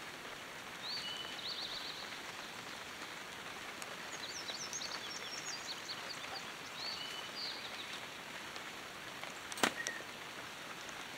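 Light rain falling with a steady hiss, with a bird chirping in short phrases several times over it. A single sharp knock sounds near the end.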